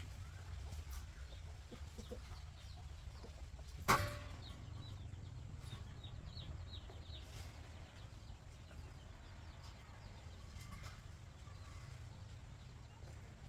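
Chickens clucking faintly over a low steady rumble, with one sharp knock about four seconds in.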